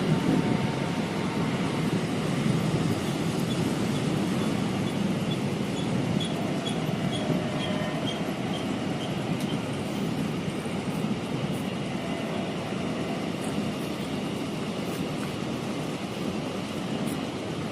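Train running along the track, a steady rumble that eases slightly toward the end. A faint high squeak repeats about twice a second for several seconds in the middle.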